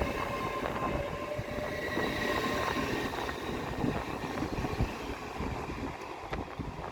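A train running through the station, with a steady high whine of several tones that fades in the second half. Wind is buffeting the microphone.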